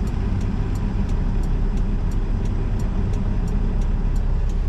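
Semi truck's hazard flasher clicking evenly, about three ticks a second, over the steady low rumble of the idling diesel engine.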